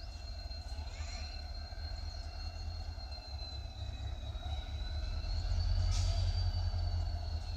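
Low rumble of a train on the Konkan Railway line, growing louder about five seconds in as it draws nearer, with a thin steady high whine over it.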